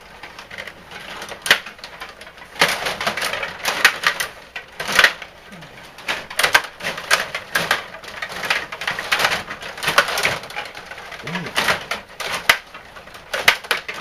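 Hockey play on a rink: irregular sharp clacks and knocks of sticks and puck, several of them louder, with no steady rhythm.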